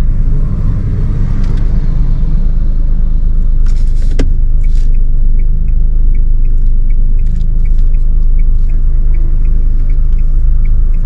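Steady low rumble of the Mahindra XUV300 moving slowly, heard from inside the cabin. A couple of sharp clicks come about four seconds in. From about halfway through, a run of short, evenly spaced high ticks follows at two to three a second.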